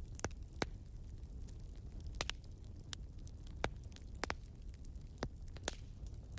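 Wood fire in a fireplace crackling: irregular sharp pops and snaps over a steady low rumble of flames.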